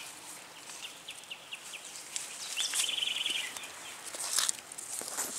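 Small songbird chirping: a run of short high notes, then a rapid trill near the middle. A brief rustle of leaves about four seconds in is the loudest sound, from tomato plants being handled.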